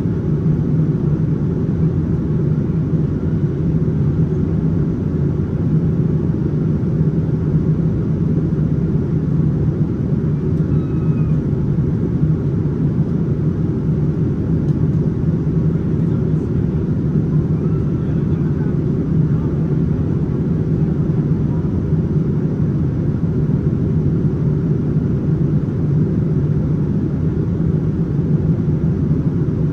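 Steady low cabin drone inside a Boeing 787-9 in flight: engine and airflow noise running evenly without change, with faint voices in the background.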